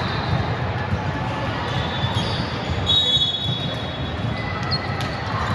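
Gym ambience: a ball repeatedly thumping on the hard court floor, with murmuring voices and a few brief high squeaks.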